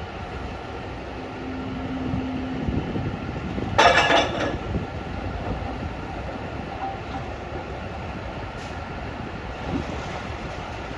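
Heavy mining machinery running steadily, typical of a 20-cubic-metre electric rope shovel working, with a brief low steady tone early on and one loud metallic clank with ringing about four seconds in.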